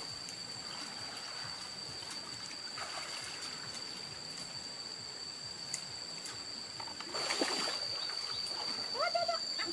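Water splashing and sloshing about seven seconds in, over a steady high-pitched whine and faint background hiss, with a short vocal sound near the end.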